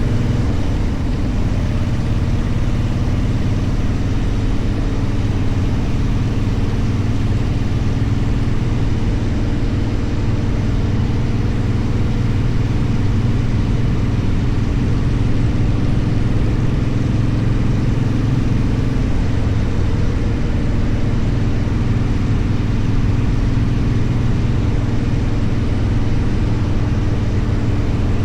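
Motorcycle engine running at a steady, unchanging note.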